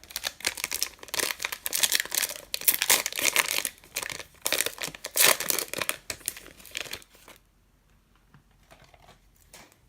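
Plastic wrapper of a jumbo trading-card pack crinkling and tearing as it is ripped open by hand, in dense crackly bursts for about seven seconds, then only a few faint rustles near the end.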